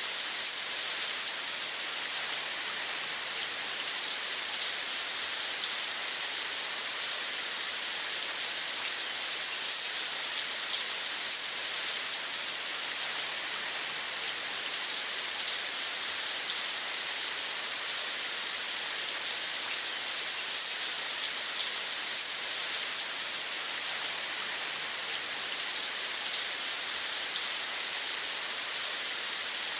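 Steady rainfall, an even hiss without pause or change, brightest in the upper range.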